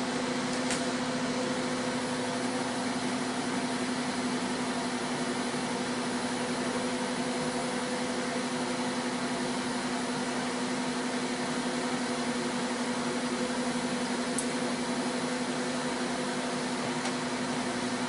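LG Smart Inverter microwave oven running while it heats a cup of coffee: a steady hum with a low, even drone.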